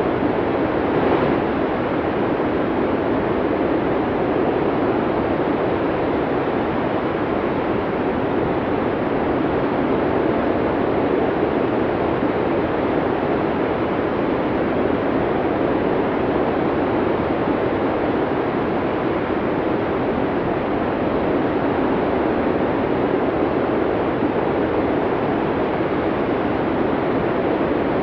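Wind of a heavy snowstorm blowing steadily, an even rushing noise with no single gust standing out.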